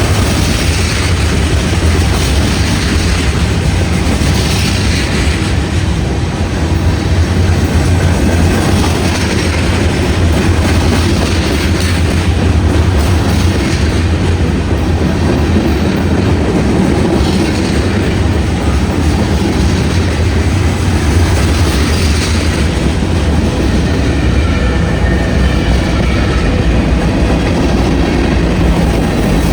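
Freight train cars rolling past, a loud steady rumble with the wheels clacking over the rail joints at intervals.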